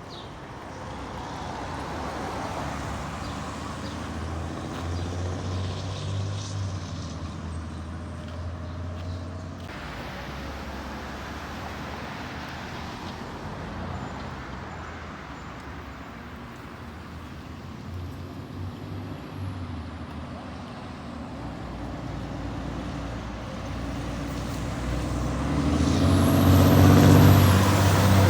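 Heavy truck engine running in traffic, with a low steady drone that grows louder near the end as it comes close.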